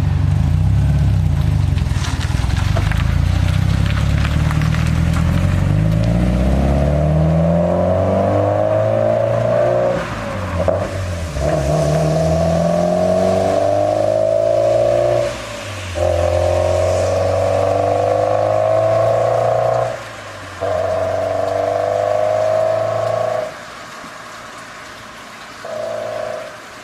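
Subaru Impreza GDB's turbocharged flat-four exhaust, through an HKS metal catalyzer and HKS Super Turbo muffler, accelerating. The pitch climbs steadily over the first several seconds, then rises again in stretches broken by short dips at the gear shifts about ten, fifteen and twenty seconds in. It drops off sharply a few seconds before the end, with one brief rev near the end.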